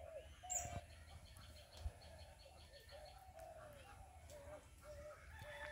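A bird calling a long run of short, hollow notes, about two a second, with fainter high chirps from other birds. A brief knock about half a second in, and a soft thump near two seconds.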